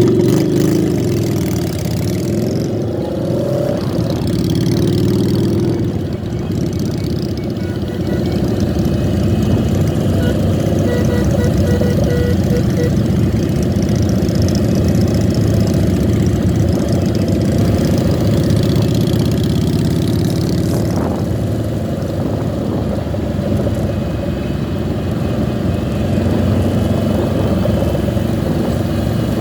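Motorcycle engines running in a large group ride, with revs rising and falling in the first few seconds and then steady running.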